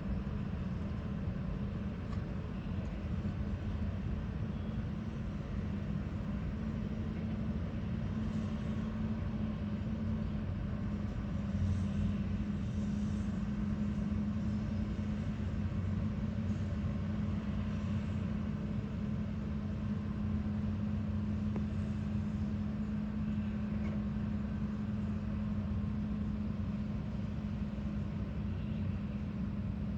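Heavy vehicle engine running at a steady speed, an even low drone, with faint clinks now and then.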